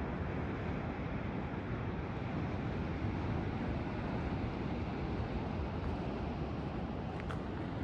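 Steady wind noise rumbling over the microphone.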